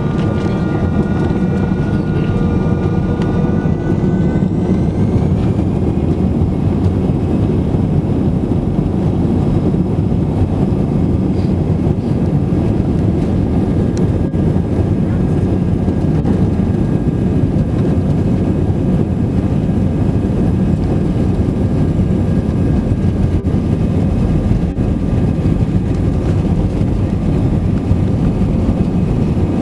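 Steady roar of an Airbus A320-200 in flight, heard from inside the passenger cabin. Engine tones rise in pitch over the first few seconds, then hold steady.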